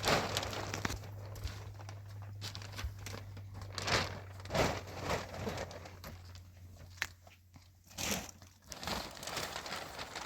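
Plastic sheeting crinkling and rustling in irregular bursts as it is handled, over a steady low hum.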